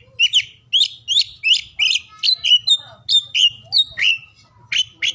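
Oriental magpie-robin (kacer) singing: a quick, unbroken run of short, varied whistled notes, about three a second, many sliding down in pitch.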